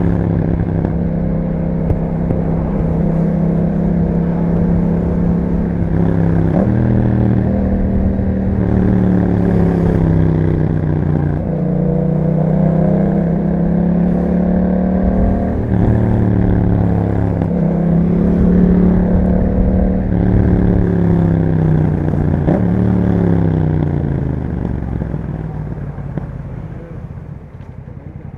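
Yamaha MT-07 parallel-twin engine running through an Akrapovic exhaust under way, its pitch stepping up and down several times through gear changes. Near the end the pitch falls and the sound drops away as the bike slows.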